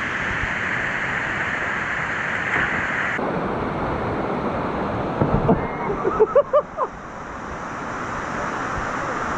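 Waterfall: a steady rush of falling water, its tone changing abruptly about three seconds in.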